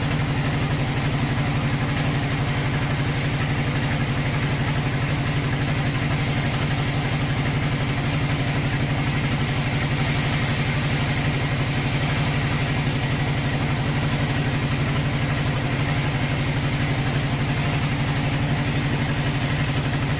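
Sawmill engine running steadily at an even speed, with no change in load.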